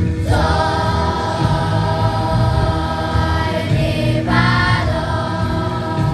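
A group of voices singing long held notes over a steady musical accompaniment. One phrase ends about four seconds in and the next begins right after it.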